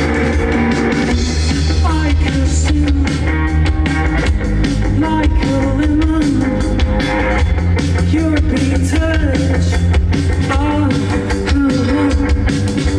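A rock band playing live, with electric guitar, drum kit and bass under a sung melody.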